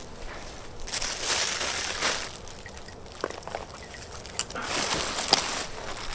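Dry brushwood twigs rustling and snapping as they are laid loosely on a small, freshly lit campfire, with a few sharp cracks. The rushing in between is partly wind on the microphone.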